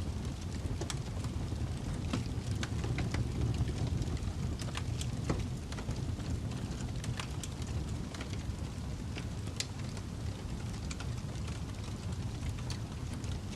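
Fireplace crackling, with irregular sharp pops and snaps over a steady low rumble.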